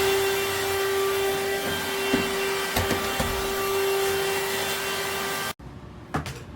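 Cordless handheld vacuum cleaner running with a steady high motor whine over the hiss of suction, with a few small knocks as it picks up debris. The sound stops abruptly about five and a half seconds in, leaving only a few faint clicks of handling.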